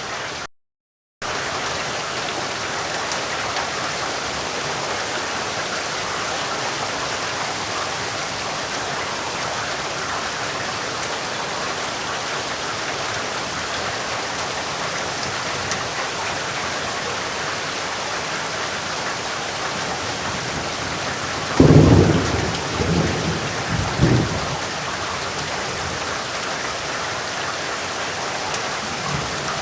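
Steady rain falling, an even hiss, broken by a full cut-out of under a second near the start. About 21 seconds in, a thunderclap breaks and rumbles for about three seconds.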